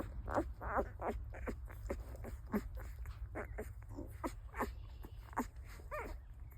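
Three-day-old puppies squeaking and whimpering in quick short squeaks, a few a second, with one longer, rising squeal near the end.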